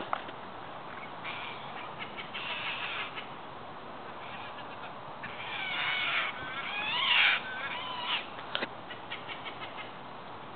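Wild green-cheeked amazon parrots (red-crowned amazons) squawking in harsh, screechy calls that come in bursts and rise and fall in pitch. The loudest shrieks come about halfway through. A sharp click sounds right at the start.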